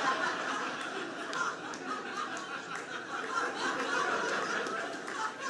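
Live audience laughing at a stand-up comedian's punchline: a steady wash of many people's laughter that eases off slightly near the end.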